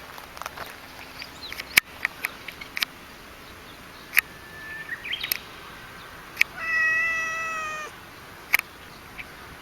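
A domestic cat gives one long meow with a slightly falling pitch, lasting over a second, about two-thirds of the way through. Short, sharp clicks and chirps are scattered throughout.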